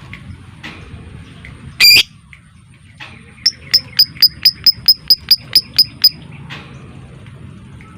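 Lovebird calling: one loud, harsh shriek about two seconds in, then a run of about a dozen sharp, evenly spaced chips, roughly four a second, lasting nearly three seconds. This is the rapid ticking "ngetik" call used to provoke other lovebirds into calling. Faint chirping sits underneath.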